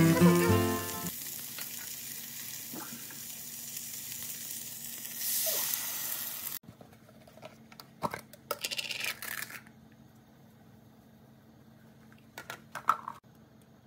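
Fish cake pieces sizzling in a frying pan. The hiss grows louder about five seconds in as water is poured from a mug into the hot pan, then stops suddenly. A few light clicks and scrapes of the pan and food follow.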